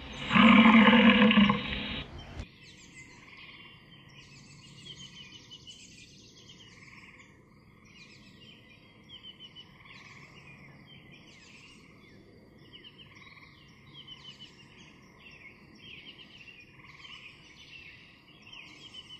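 Bison bellowing once, a low growl lasting about a second and a half, followed by many short bird chirps over a steady outdoor background.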